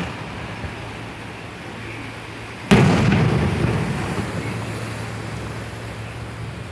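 A single loud bang about two and a half seconds in, followed by a rumble that dies away over a few seconds, over a steady low hum.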